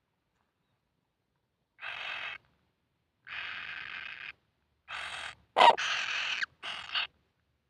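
Kingfisher chicks giving harsh, hissing begging calls: five rasping bursts of about half a second to a second each, the loudest with a sharp start a little past halfway.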